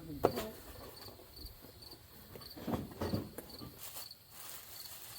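A cricket chirping steadily, about two short high chirps a second. A few knocks and clatter come through, a quarter second in and again around the middle, as parts are handled.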